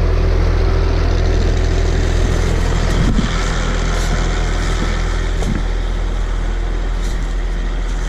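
Skidder engine running steadily at a low, even idle, with a single knock about three seconds in.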